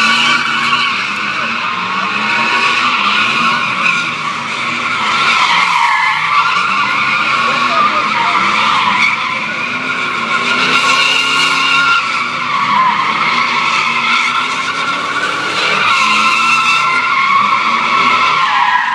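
Truck tyres spinning and squealing continuously in a burnout, the engine running hard underneath. The squeal wavers in pitch and cuts off suddenly at the end.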